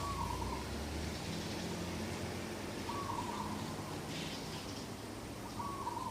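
Morning birdsong: one bird repeats a short low call about every three seconds, with a fainter high chirp from another bird between.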